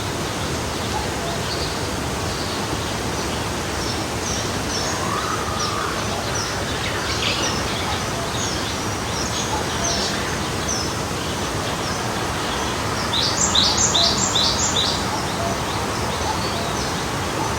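Forest stream flowing steadily, with small birds chirping high over the water. About 13 seconds in, one bird gives a quick run of five bright descending notes, the loudest call.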